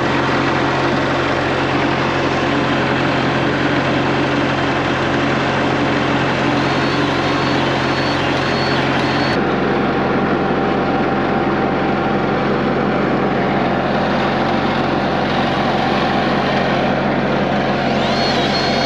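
Diesel skid steer engine running steadily at warm-up. A thin, wavering high whine comes in twice, once for a few seconds and again near the end.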